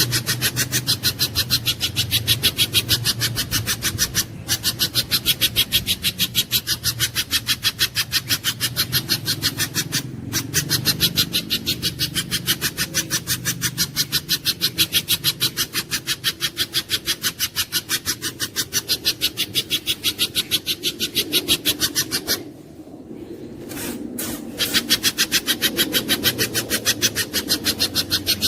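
Spiderhunter (pijantung gunung) calling in a fast, even string of sharp chipping notes, about six a second, broken by a few short pauses, over a steady low hum.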